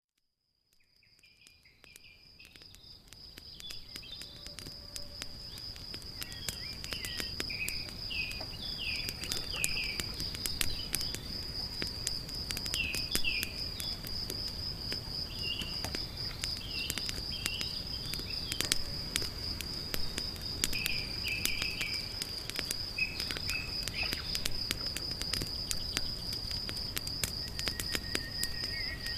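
Campfire crackling with frequent sharp pops, over a steady high insect trill and scattered chirps. It fades in over the first few seconds.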